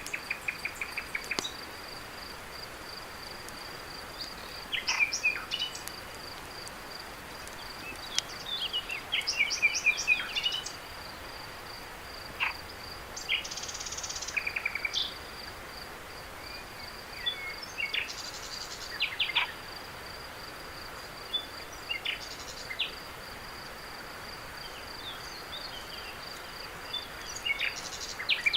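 Night insect chorus: a steady, high-pitched cricket trill, with scattered short clusters of bird chirps over it, the busiest a quick run of chirps about eight to ten seconds in.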